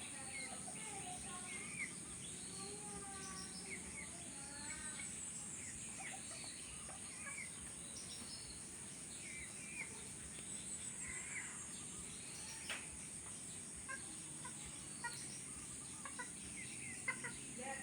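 Several small birds chirping and whistling in short scattered calls over a steady high-pitched insect drone, with a few sharp clicks near the end.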